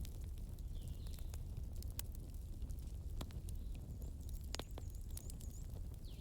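Bonfire burning: a steady low rumble of flames with scattered sharp crackles and pops, and a few faint high chirps.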